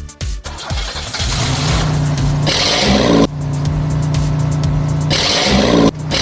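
Car engine revving up and then held at a steady high speed. The sound breaks off and jumps abruptly a couple of times.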